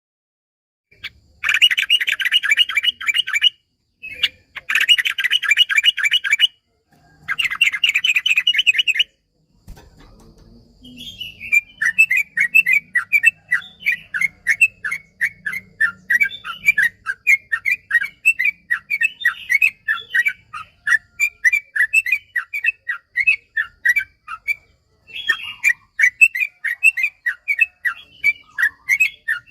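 Yellow-vented bulbul (trucukan) song. It opens with three short, dense bursts of rapid notes, then breaks into a long, fast chattering trill of repeated notes that runs for over ten seconds, pauses briefly, and starts again.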